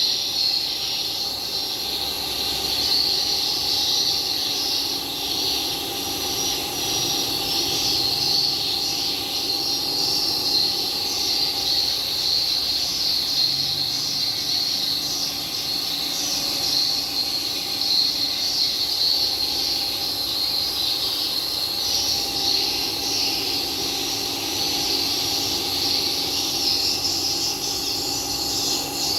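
Gromax WL-5500 humidifier running: a steady high hiss with a squealing edge over a constant low hum.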